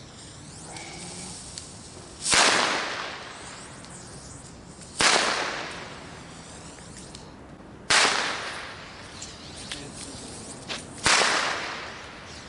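Four loud firework bangs about three seconds apart. Each is a sharp crack that dies away over a second or two in echo, with a few faint pops in between.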